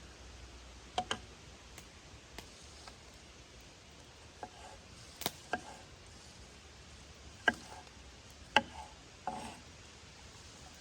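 Irregular sharp knocks and cracks, about eight in all and unevenly spaced, the two loudest in the second half, over a faint steady hiss.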